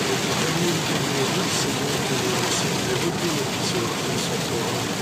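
Car driving through heavy thunderstorm rain, heard from inside: a steady wash of rain and road noise with faint high ticks about once a second.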